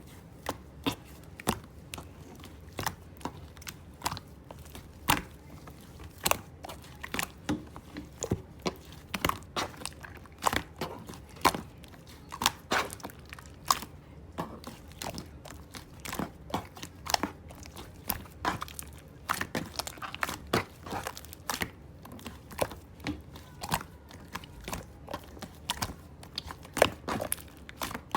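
Slime being squished and pressed by hand, making repeated sticky pops and crackly clicks, a few a second.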